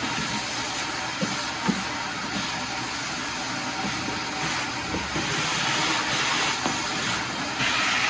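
A steady rushing hiss, with a few light knocks about a second in and a louder stretch near the end.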